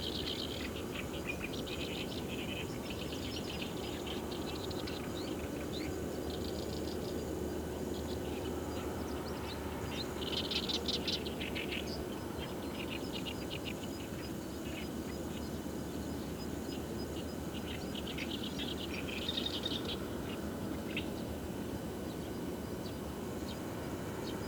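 Wild birds calling in repeated bursts of quick, high chirps, louder about ten seconds in and again near the end, over a steady low background rumble.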